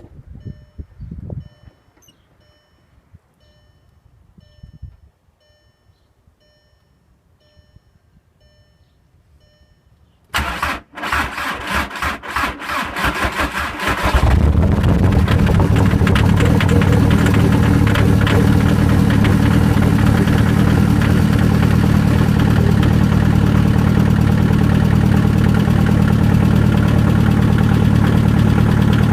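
A faint chime repeats about twice a second, then about ten seconds in the 2003 Jetta's 1.9 L ALH TDI diesel cranks for about four seconds and catches, settling into a loud steady idle through its straight-piped exhaust. It is a cold start at −15°F after sitting outside for a day.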